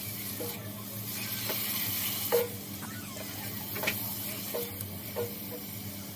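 Chicken liver, onions and spices sizzling in ghee in a kadai while being stirred and roasted (bhuna). A steady frying hiss, with the spatula scraping and tapping against the pan about once a second.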